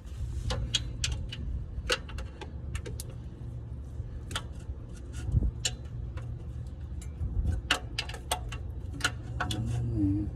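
Irregular sharp metallic clicks and taps from a hand tool being worked onto an oil filter under a car, over a steady low hum.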